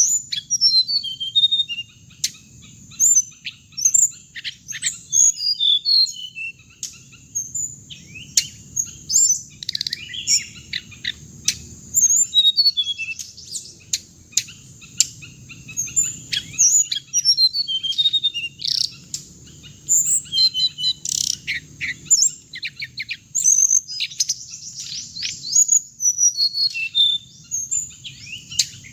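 Recorded song of the hồng hạnh bird, used as a trapping lure: a steady stream of quick, high chirps and short gliding whistles, many notes a second, over a faint low hum.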